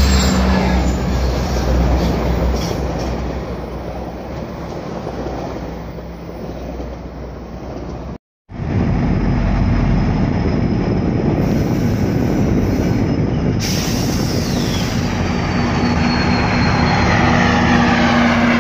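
Passenger train rolling along the tracks below with a steady rumble that fades as it moves away. After a sudden break, a second train approaches and passes with a steady rumble, and faint high wheel squeal comes in during the last few seconds.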